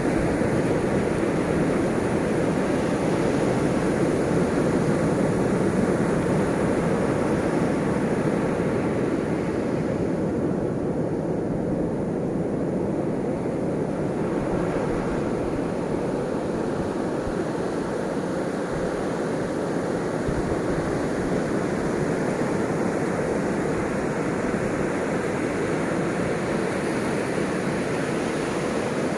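Ocean waves breaking and washing in a continuous rush of surf, swelling slowly and easing a little partway through.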